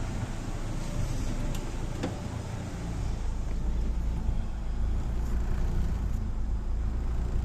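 Daewoo Racer GTI engine idling hot and unevenly, a low rumble that dips and picks up again about three seconds in. The owner takes the rough, shaking idle for a possible misfire.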